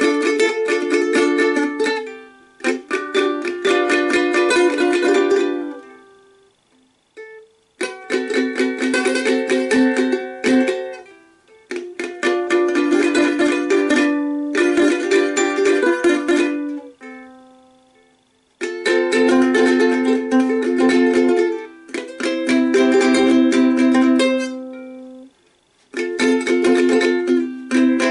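A plucked string instrument strummed in chord phrases of a few seconds each, with brief pauses between phrases.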